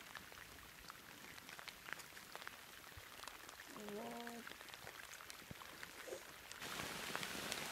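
Light rain falling on pond water and lily pads: a soft steady hiss scattered with small drop ticks, growing louder near the end. A brief voice sound about four seconds in.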